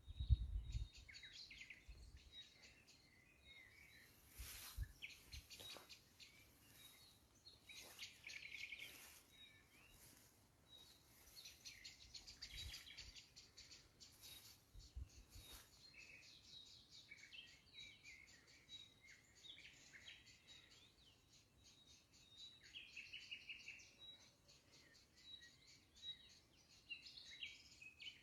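Many small birds chirping and twittering, with overlapping quick trills, at a faint level.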